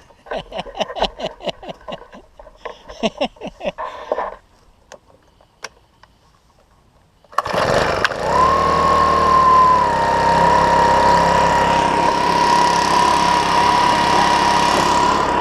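Home-built pulse jet engine: two short bursts of rapid popping, a pause, then it lights abruptly about seven seconds in and runs with a loud, steady buzz whose pitch drops slightly and then holds.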